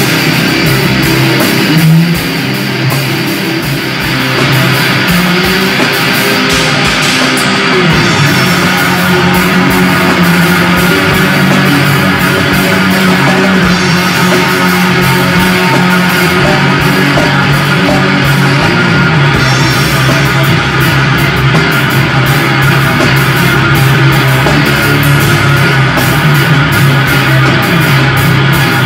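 Guitar and drum kit playing loud rock, with a short dip in loudness a couple of seconds in.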